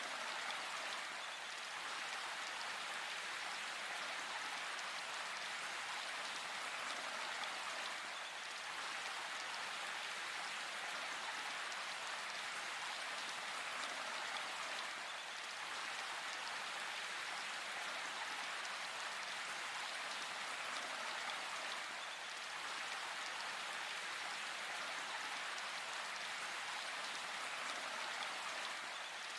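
Steady rain falling, an even hiss of many drops with no single drops standing out.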